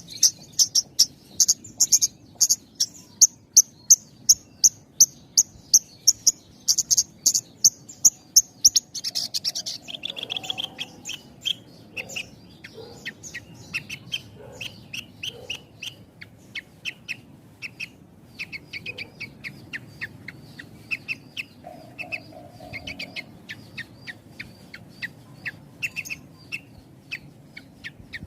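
Javan bush lark (branjangan) singing. It opens with a fast series of sharp, high repeated chirps, and about ten seconds in switches to a lower, more varied run of notes with short gaps between phrases.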